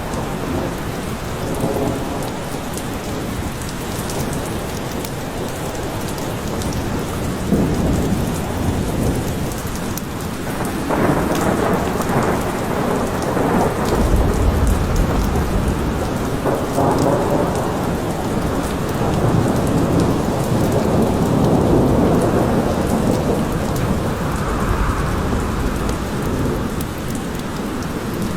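Steady rain falling, with low rolls of thunder swelling and fading several times, the heaviest rumbles in the middle of the stretch.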